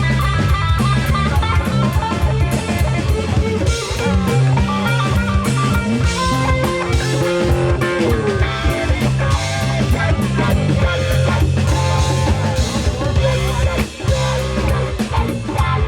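Live rock band playing an instrumental passage: electric guitar lines over a steady bass line and drum kit, with no singing. One note slides down about halfway through.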